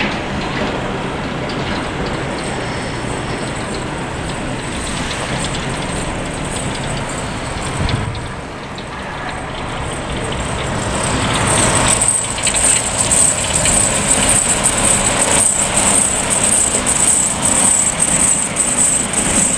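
Snow plow truck running on the street, a steady engine and road noise. About twelve seconds in it grows louder, with a rapidly pulsing high-pitched hiss.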